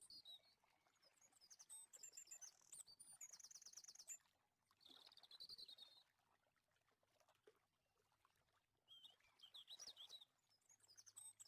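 Faint songbird chirping and trills, in short high phrases with a pause of a few seconds in the middle.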